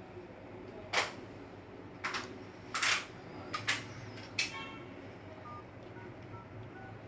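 A handful of short, sharp clicks and taps, about five spread over the middle few seconds, from handling a smartphone and tapping its screen.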